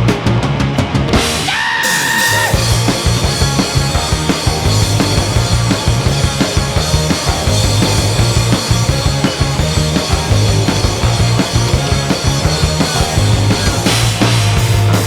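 Rock band playing live without vocals: distorted guitars, bass and a drum kit, with a short break around two seconds in before the full band comes back in.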